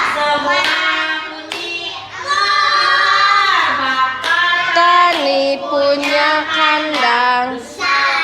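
A child singing a song in a series of held notes that step up and down in pitch.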